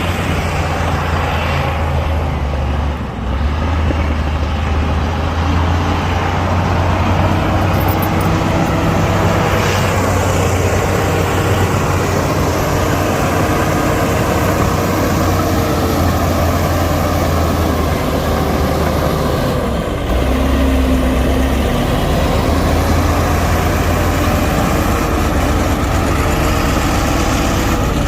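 Heavy diesel earthmoving machinery running under work, a loud, steady low engine hum whose pitch drifts up and down a little, with brief dips about three seconds in and again near twenty seconds.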